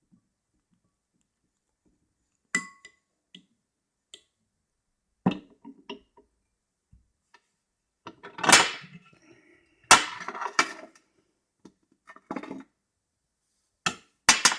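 Glassware and crockery being handled: a series of separate clinks and knocks, one early clink ringing briefly, with a longer scraping or rustling stretch about two-thirds of the way through.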